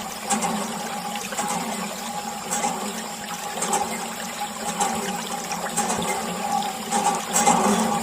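Water splashing and trickling from a miniature DIY water pump, with a steady hum beneath.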